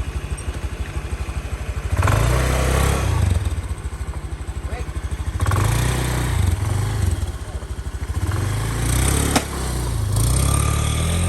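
Two-stroke underbone race motorcycle engine idling with a fast, uneven pulse, its throttle blipped three times, about two, five and a half and eight and a half seconds in. A single sharp click comes near the end.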